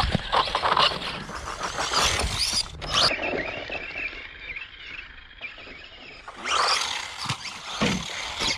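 Small-scale brushless RC car running over rocks: high motor whine rising and falling with the throttle, mixed with rattles and a sharp knock about three seconds in. It goes quieter for a few seconds, then the whine comes back near the end.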